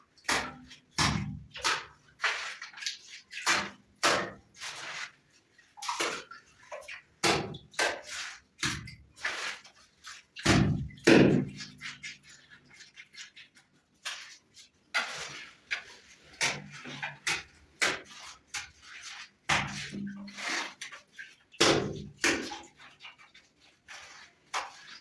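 Irregular knocks and clatters, a few a second, some with a short low ring.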